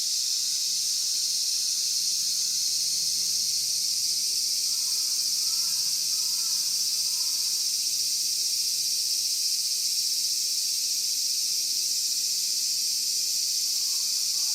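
Steady, high-pitched insect chorus droning without a break. Faint short whistled notes repeat a few times about five to seven seconds in, and again near the end.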